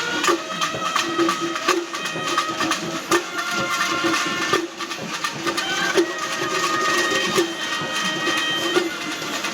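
Kerala temple-festival music: a drum ensemble plays a fast, dense rhythm under held notes from wind instruments, with a heavy accent stroke about every second and a half.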